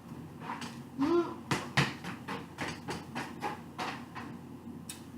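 Close-up eating sounds: crab shells cracking and snapping, with clicks of handling and chewing, a dozen or so sharp cracks over a few seconds. A short hum of a voice about a second in.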